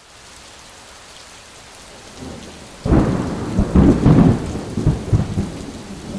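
Steady rain falling during a thunderstorm, then a loud clap of thunder breaks in about three seconds in, a deep crackling rumble that rolls for a couple of seconds and slowly dies away under the rain.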